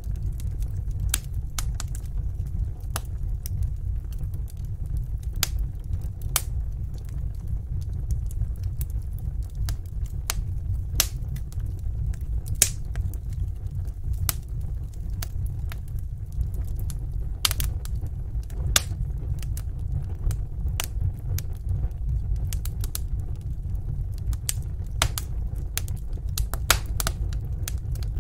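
Wood fire burning in a fireplace: a steady low rumble of the flames with irregular sharp crackles and pops, some louder than others.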